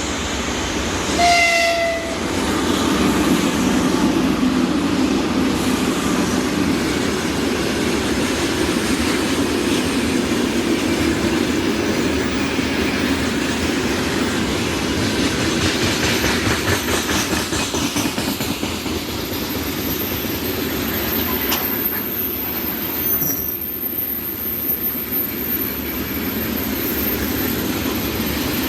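A passing train sounds a short horn blast about a second in, then runs by with a steady rumble and wheels clattering over the rail joints.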